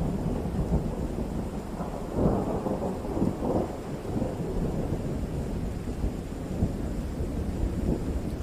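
Thunder rumbling over steady rain, swelling about two seconds in and then rolling on.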